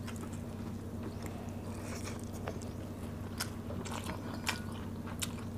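Mouth sounds of people eating rice and fish with their hands: chewing with scattered small wet clicks and smacks, over a steady low hum.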